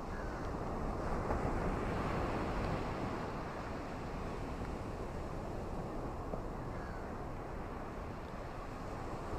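Ocean waves washing onto a beach: a steady rush of surf that swells about a second in and eases off over the next few seconds.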